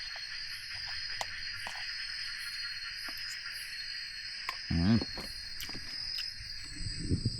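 Steady night chorus of jungle insects, a continuous high drone with a faster pulsing layer above it, with a few small clicks and a short voiced sound about five seconds in.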